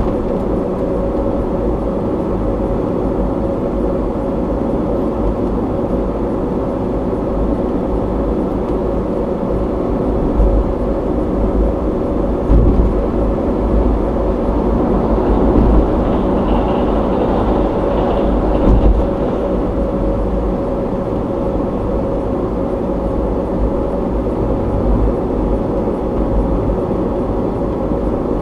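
Steady road and engine noise of a car driving, picked up by a dashcam inside the cabin: a low rumble with a steady hum, and a few brief louder jolts midway.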